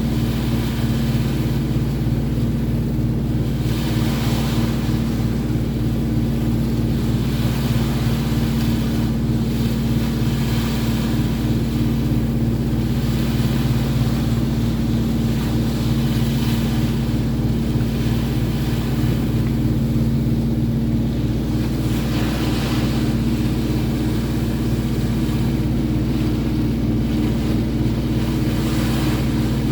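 A boat's engine running at a steady drone, with wind and water rushing over it that swell and fade every few seconds.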